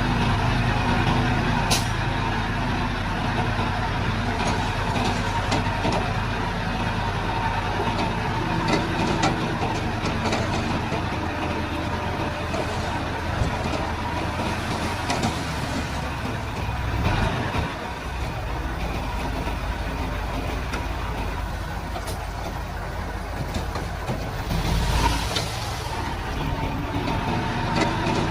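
Komatsu D31-P bulldozer's diesel engine running steadily while working soil, with a sharp clank about two seconds in and a short hiss near the end.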